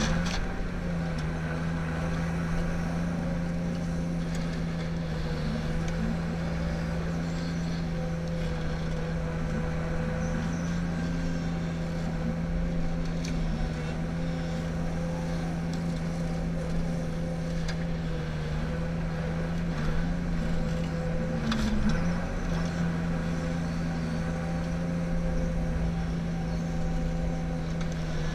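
Ponsse Ergo harvester's diesel engine running steadily at working revs. Its pitch sags briefly and recovers twice, right at the start and about three-quarters of the way through.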